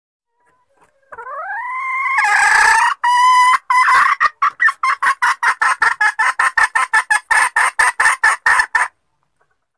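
Junglefowl hen calling: a rising drawn-out note, then a fast run of clucks about five a second that stops abruptly. It is a hen's lure call, used to draw wild males out of cover.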